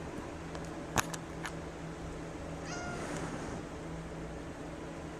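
A cat gives one short, high meow about three seconds in. A sharp click about a second in, followed by two lighter clicks, is the loudest sound.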